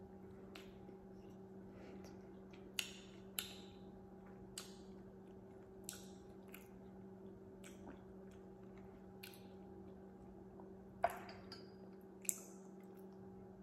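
Quiet mouth sounds: scattered lip smacks and chewing clicks, about eight in all, over a steady low hum.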